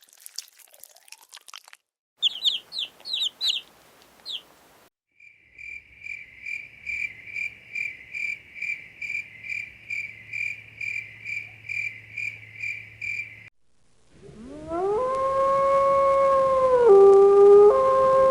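A run of animal calls: about six quick high chirps, then a steady high chirp repeated about twice a second for several seconds, then a dog howling, one long drawn-out howl that rises in pitch at the start and dips briefly near the end.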